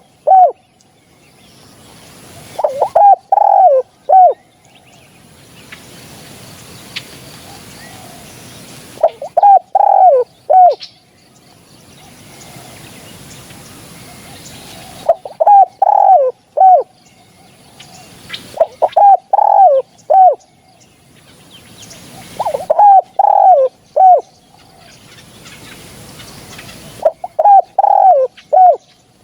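Spotted dove cooing: loud phrases of three or four low coos, each note bending downward at its end, repeated every few seconds at irregular intervals.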